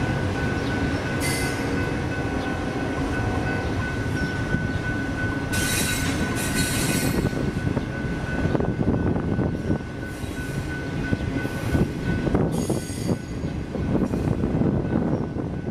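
Double-stack intermodal freight train passing at a grade crossing: a steady low rumble of cars and wheels on the rails, with a steady high tone for roughly the first ten seconds and brief high screeches about a second, six and twelve and a half seconds in. Wheel knocks over the rail joints grow more distinct in the second half.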